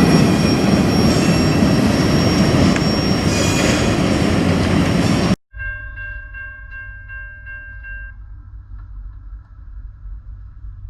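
Train passing close, with loud steady rolling noise and high-pitched wheel squeal. About halfway through, the sound cuts off abruptly. A much quieter low rumble follows, with a ringing tone repeating about three times a second for a couple of seconds.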